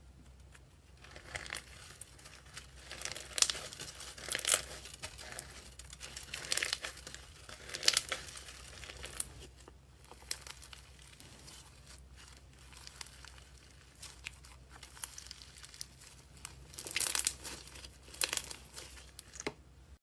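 Slime being squeezed and worked by hand, giving irregular crackles and pops, with louder bursts of popping several times.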